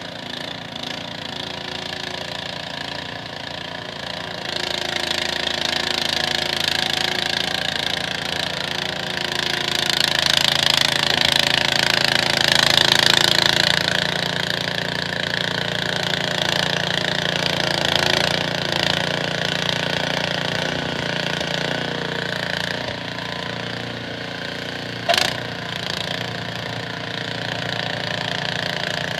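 Snowblower's small engine running steadily under load, with the rushing hiss of snow being thrown swelling louder in the middle and easing off. A single sharp knock about 25 seconds in.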